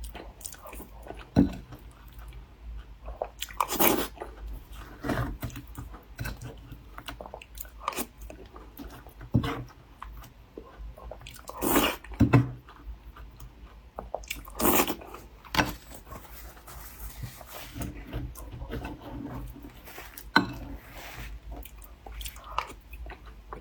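Close-miked eating: bites into a layered mille-feuille pastry and chewing, with a few louder bites or crunches standing out about 4, 12 and 15 seconds in.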